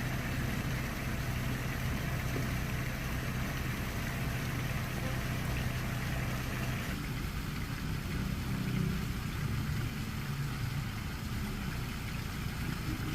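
An engine running steadily with a low hum; its sound shifts slightly about seven seconds in.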